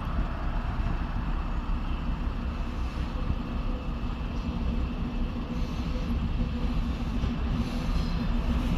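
Freight train with a ChME3 diesel shunting locomotive rolling by: a steady low rumble of engine and wagons. A faint engine hum comes up about halfway through.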